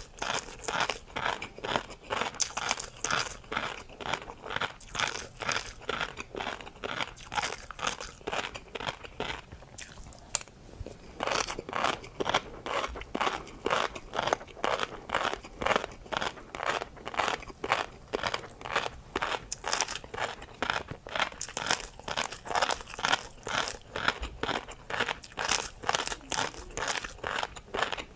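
Close-miked chewing of tobiko (flying fish roe): a steady run of crisp crunches, about two to three a second, with a short pause about ten seconds in.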